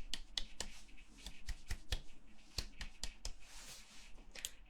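Close-miked ASMR hand sounds: soft, quick, irregular clicks and taps, several a second, with light rustling in between.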